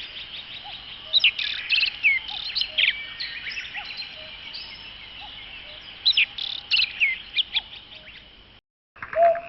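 Wild birds singing: several overlapping chirps and quick trills, loudest in two spells about a second in and about six seconds in, over a steady high-pitched hum of song. Near the end the sound cuts out briefly and a lower, repeated call starts.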